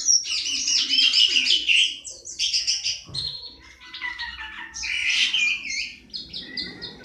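A songbird singing a fast, varied song of rapid chattering and repeated high notes, with brief pauses between phrases.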